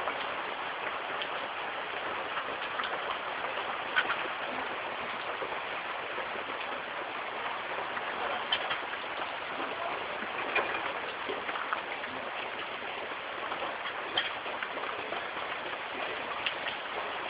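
Steady rain falling and pattering on surfaces, with a few louder individual drops ticking.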